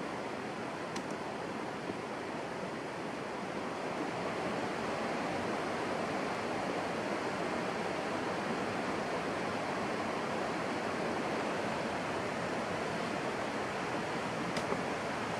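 A steady rushing noise, growing a little louder a few seconds in, with a few faint ticks near the end.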